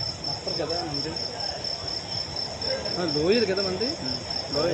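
Steady, high-pitched chirring of insects, a continuous fine pulsing trill, with faint voices talking in the background about half a second in and again around three seconds in.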